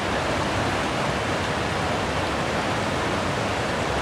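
Steady rushing roar of a waterfall pouring into a creek pool.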